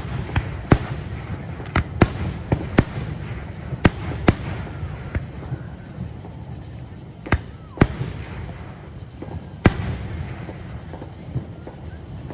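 Aerial fireworks bursting: a string of sharp booms, close together for the first few seconds and then sparser, over a steady low rumble and crackle.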